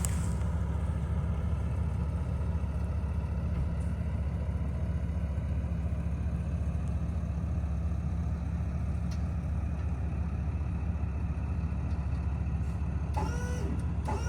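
Truck engine running steadily, a low, even rumble that holds without a break.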